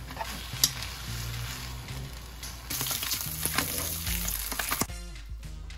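Food sizzling in a frying pan as it is tossed and turned with metal tongs: first spicy black-bean instant noodles being stir-fried, then slices of Spam frying, the sizzle growing louder a little under three seconds in, with a few sharp clicks of the tongs. Background music runs underneath, and the frying stops about five seconds in, leaving only the music.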